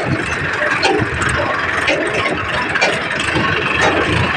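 Heavy diesel engine running steadily, with a dense, even noise and scattered small clicks.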